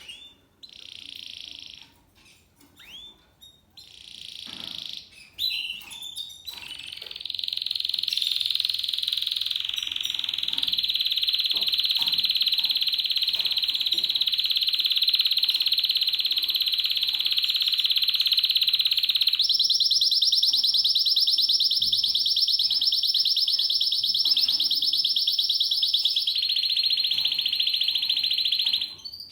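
Spanish Timbrado canary singing: a few short phrases, then a long unbroken rolling trill that shifts to a higher, buzzier tour about two-thirds of the way through and drops back near the end.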